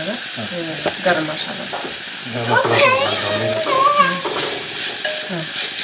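Curry base frying in hot oil in a clay pot while being stirred vigorously: a steady sizzle with the sounds of the stirring.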